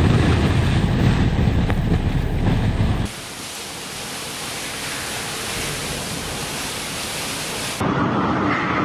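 Storm sounds in three abrupt cuts: a loud, deep rumbling storm noise for about three seconds, then the steady hiss of heavy rain, then a different mid-range rushing noise near the end.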